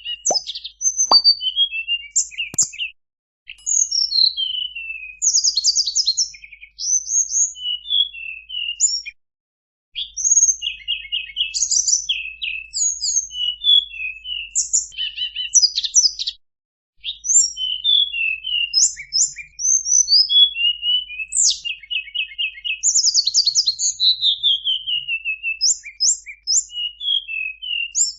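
Tledekan gunung singing a long, varied song of rapid chirps, fast trills and falling whistles, broken by a few short pauses. This is a masteran recording, used to set cage songbirds singing in reply.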